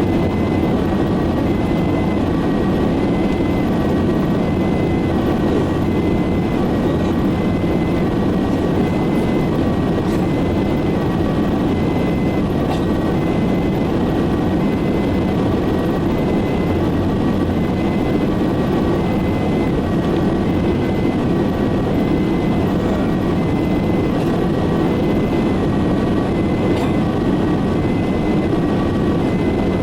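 Two-tone emergency siren alternating steadily between a high and a low note, heard from inside the ambulance cabin over constant road and engine noise during fast driving.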